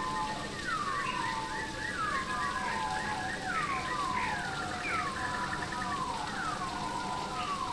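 Steady rainfall in a rainforest, with birds calling in falling whistles that slide from high to low, repeated roughly once a second and overlapping.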